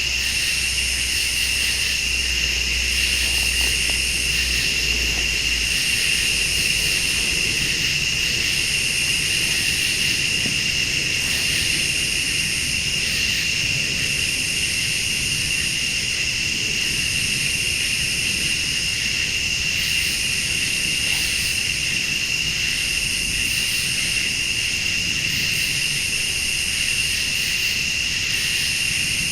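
A steady night chorus of crickets and other late-summer insects, with a higher pulsing call repeating every two to three seconds. A faint low rumble runs underneath, and a low hum stops about six seconds in.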